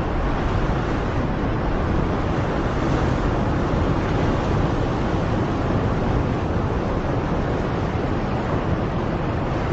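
Steady rushing noise of surf and wind on the shore, even and unbroken, with no bird calls standing out.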